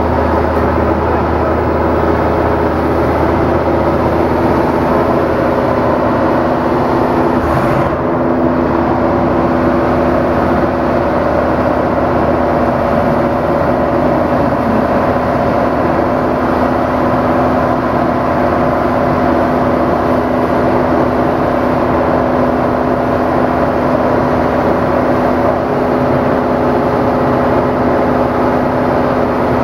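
Loud, steady running of engine-driven diamond concrete-cutting equipment.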